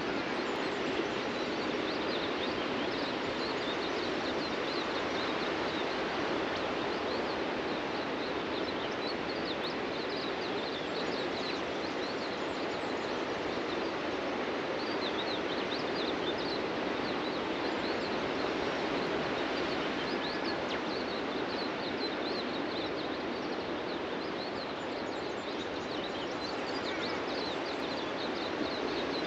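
Steady wash of ocean surf breaking on a beach, with many small birds chirping high and fast through it.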